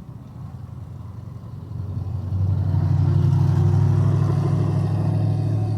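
Car engine running with a low, steady drone that grows much louder about two seconds in and then holds.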